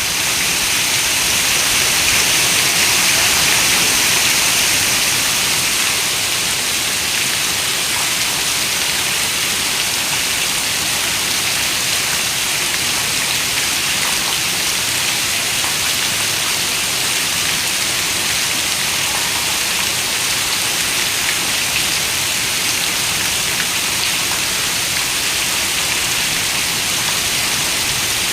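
Heavy rain falling on a window: a steady, dense hiss that swells slightly a few seconds in.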